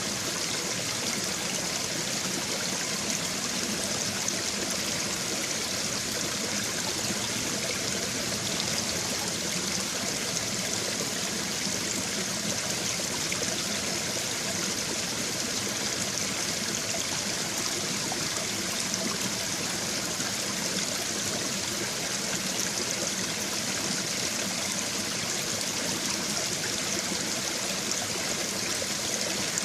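Small brook babbling over stones: a steady, unbroken rush and trickle of shallow running water.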